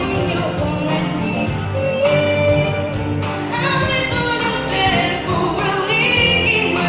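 A young girl singing a Ukrainian pop song over an instrumental backing, holding one long note about two seconds in.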